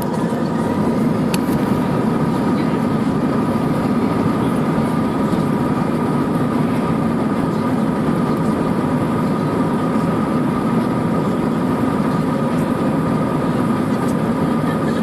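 Jet airliner engines heard from inside the cabin: a steady rushing noise with a steady high whine. It builds slightly in the first second and then holds level.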